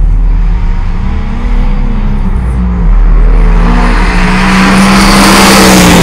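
Vehicle engines at full throttle in a drag race, their pitch climbing and dropping with the gear changes, under a rush of noise that builds and is loudest near the end.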